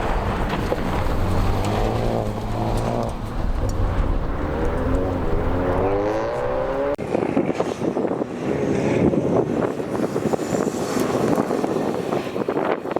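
Rallycross car engine accelerating hard, its pitch climbing again and again as it goes up through the gears. About seven seconds in the sound breaks off abruptly into a rougher, noisier car sound without a clear engine note.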